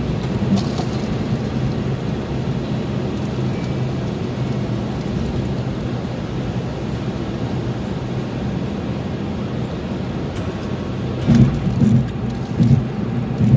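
A car being driven: steady road and engine noise with a low hum, and a few louder thumps near the end.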